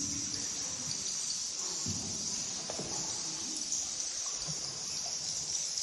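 A bat colony in a limestone cave making a steady, high-pitched chittering.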